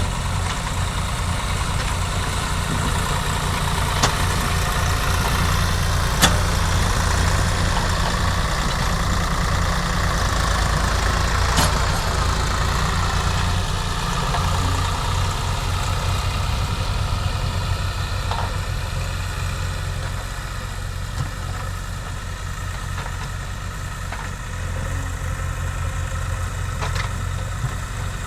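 Diesel engine of a heavy machine running steadily, a little louder through the middle, with a few sharp knocks at about four, six and twelve seconds in.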